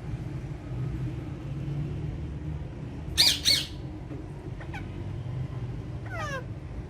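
Parakeets calling: two loud, sharp screeches in quick succession about three seconds in, a faint short call a little later, and a quick run of falling chirps near the end, over a steady low hum.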